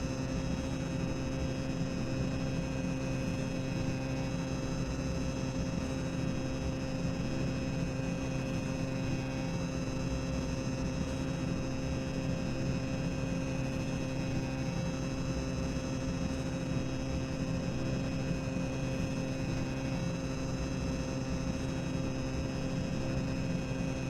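Steady boiler-room machinery ambience: a constant low rumbling hum with several steady tones and a faint hiss over it, unchanging throughout.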